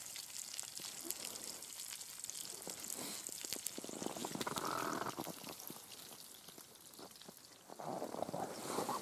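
Steak sizzling and spitting in a frying pan over a campfire, a dense continuous crackle. Two louder stretches of rustling noise come about four seconds in and near the end.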